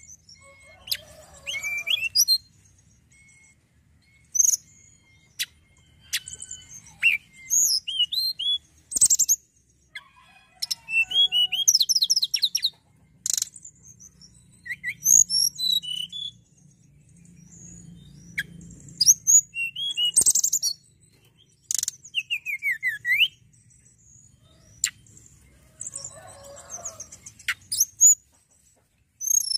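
A tledekan gunung songbird singing in quick, varied phrases of high chirps, fast trills and sliding whistles, with short pauses between phrases. A faint low hum lies underneath.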